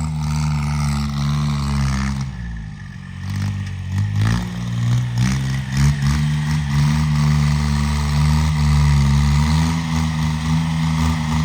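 Engine of a homemade 26 hp tractor running. Its note drops and quietens about two seconds in, then picks back up and runs steady.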